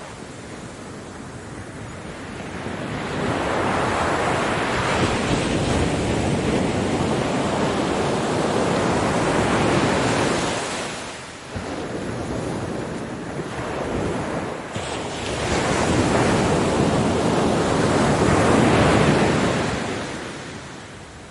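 Ocean surf breaking and washing up a beach, in two long swells: the first builds about 3 seconds in and ebbs about 11 seconds in, the second peaks near 19 seconds and fades near the end.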